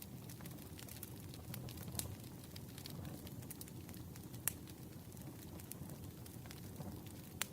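Campfire crackling over a steady low rumble of burning wood, with scattered sharp pops, one standing out about halfway through.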